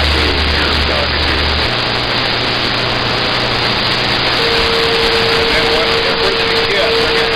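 CB radio receiver static, a loud steady hiss with faint, garbled voices under it. About halfway through, a steady whistle tone comes in on top of the noise.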